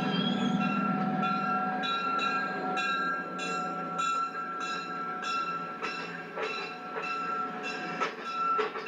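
Railroad cars rolling along the track: the wheels click over the rail joints in a steady rhythm, a little under two clicks a second, over a rumble and a thin, steady high tone.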